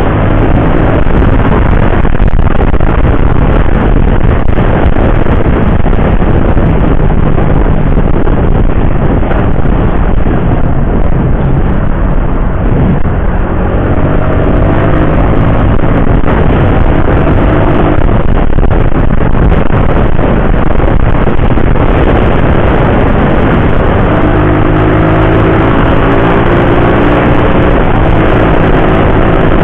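Riding on a motorcycle at road speed: loud, steady wind and road noise with engine hum, whose pitch climbs slowly about halfway through and again near the end as the engine speeds up.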